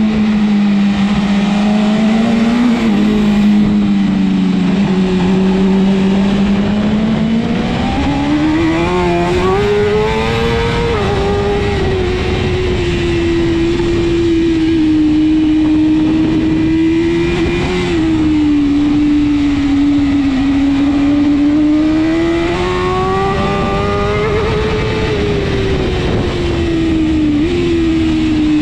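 BMW S1000RR superbike's inline-four engine running hard at racing speed. Its pitch climbs and falls several times with the throttle, with a few quick steps at gear changes.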